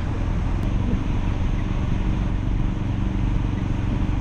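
Ford Focus RS engine running steadily under load as the car ploughs through deep snow, over a continuous rush of tyres and snow against the car.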